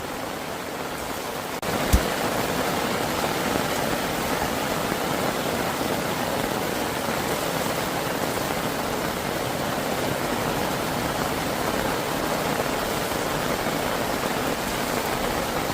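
Heavy rain falling steadily, an even dense hiss that gets louder a little over a second in, with one sharp knock just after.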